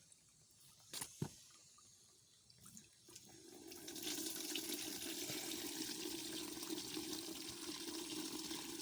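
Water running into a 16-litre sprayer tank, starting about three and a half seconds in and then pouring steadily, as the tank is filled to mix the pesticide solution. Two short knocks come about a second in.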